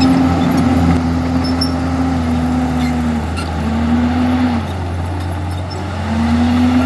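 Komatsu D51EX bulldozer's diesel engine running under load, its pitch sagging about three seconds in and again from about four and a half seconds, then climbing back near the end.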